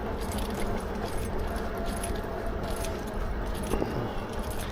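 Lectric XP4 e-bike rolling along a flat path: steady tyre and wind noise with a light, quick metallic rattle from the bike's parts.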